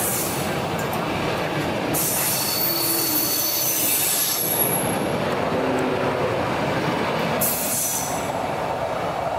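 České dráhy passenger coaches rolling past at speed with a steady wheel rumble. Wheels squeal high-pitched on the curving track from about two seconds in to halfway, and briefly again near the end as the last coach goes by.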